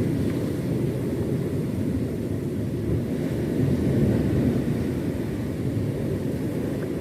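Steady low rumble of a fishing boat's motor running as the boat heads back out on the sea.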